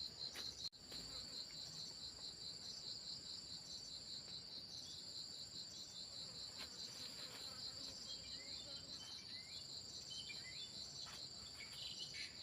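Insects chirping steadily in the forest: a high, rapidly pulsing chirp that keeps on without a break, with a second, slower pulsing call above it.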